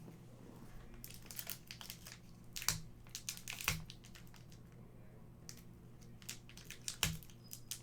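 Trading card pack being handled: crinkling of the foil wrapper and cards rustling, with a few sharp clicks, the loudest about three, four and seven seconds in.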